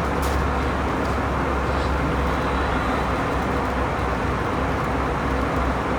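Steady cabin noise of an Airbus A321 in flight, a constant low rumble and rush of air and CFM56 engines.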